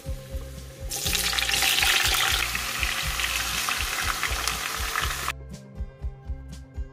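Diced zucchini sizzling in hot oil in a frying pan. The sizzle starts about a second in, is loudest just after, and cuts off suddenly near the end.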